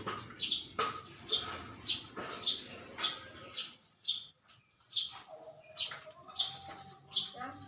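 A bird chirping over and over, a short high chirp roughly every half second.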